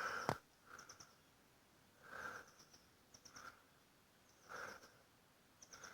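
Faint, high chirping: short stuttered groups of three or four quick notes, repeating about once a second.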